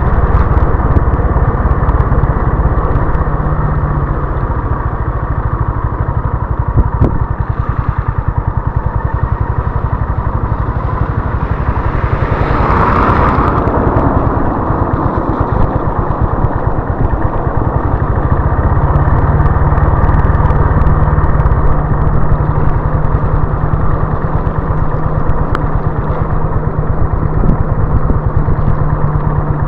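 Honda CB350 RS's air-cooled single-cylinder engine running steadily on the move. About 13 seconds in there is a brief rushing noise, and the engine settles into an even cruising note from about two-thirds of the way through.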